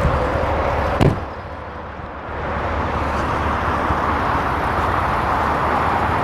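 An SUV door shutting with a single solid thud about a second in, over a steady rushing noise.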